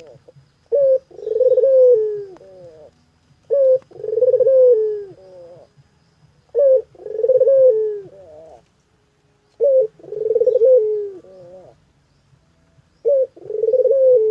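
Ringneck dove (burung puter) cooing persistently in the 'gacor' style used as a lure call. It gives a phrase about every three seconds: a short coo, then a long coo falling in pitch, then a few short notes.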